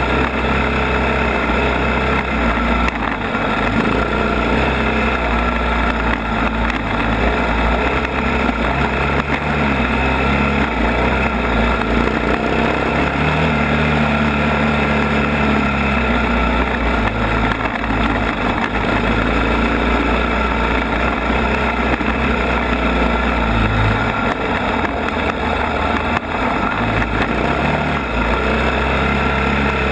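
ATV engine running under way, its pitch stepping up and down with the throttle.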